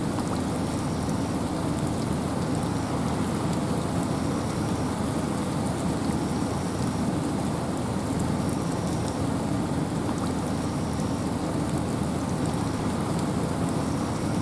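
Steady rain and wind in a forest: an even low rush with fine raindrop ticks above it. Faint short high notes repeat about every second and a half.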